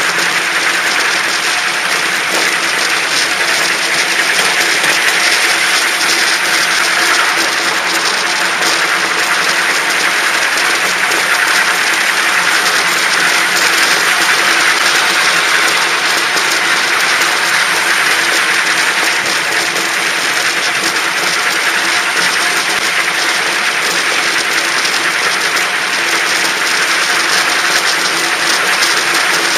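Park railway train running on its track: a steady rush of wheel and rail noise with faint steady tones underneath.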